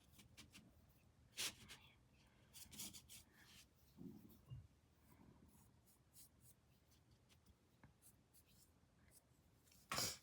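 Paintbrush working thick paint onto a canvas: faint, scattered scratchy strokes, the loudest near the end.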